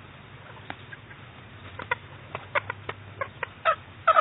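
Chicken clucking: a quickening run of short clucks starting about two seconds in, the loudest near the end, over a steady low hum.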